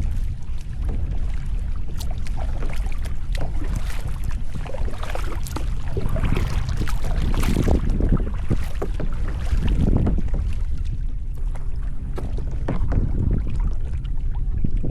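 Kayak paddle strokes splashing and water dripping from the blades, with a steady low wind rumble on the microphone.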